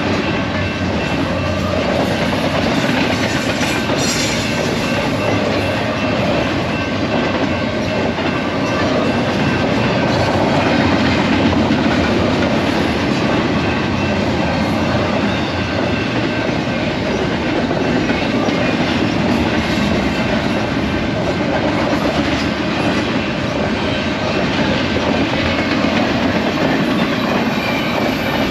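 BNSF freight train rolling past at a grade crossing: a steady, loud rumble of wagon wheels on the rails with a clickety-clack over the rail joints.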